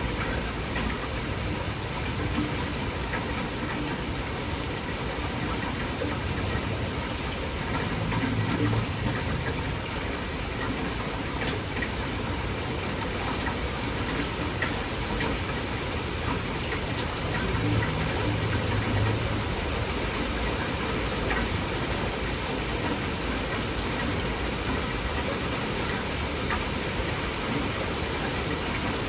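Heavy rain pouring steadily, with scattered drops ticking through it. A low rumble swells briefly twice, about eight and eighteen seconds in.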